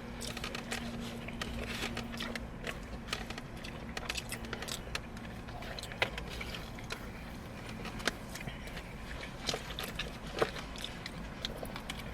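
Eating sounds from a takeout meal: scattered small clicks, taps and rustles of plastic utensils and food containers, with some chewing, over a steady low hum.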